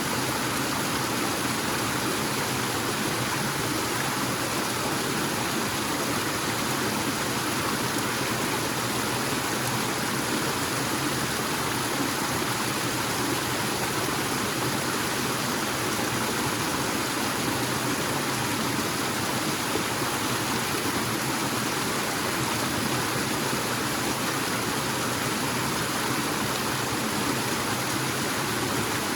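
Forest waterfall and stream, water falling and rushing in a steady, unbroken flow.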